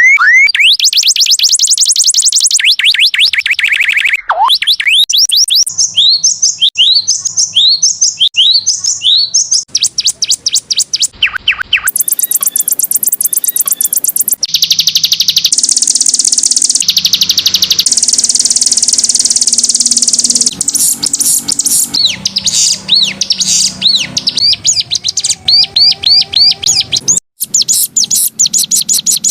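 Canary singing a long, loud song of rapid trills, with runs of quick repeated falling whistles, buzzy rolls and fast chirps that change every second or two, as in a canary tutor (masteran) recording.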